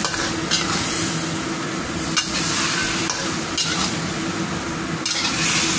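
Chicken pieces and chilli paste sizzling in a wok while a spatula stirs and turns them, with a few sharp clacks of the spatula against the pan, the sharpest about two seconds in.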